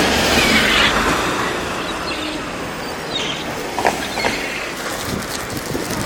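Gulls calling briefly a few times over a steady rushing background noise that is loudest in the first second.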